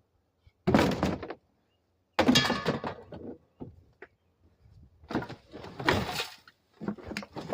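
Four separate bouts of thunking and clattering, like doors or gear being handled, with quiet gaps between them.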